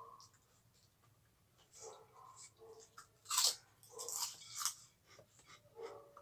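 Chewing a mouthful of crisp fried cracker (krupuk) crumbs, with a few sharp crunches from about three seconds in, the loudest just after.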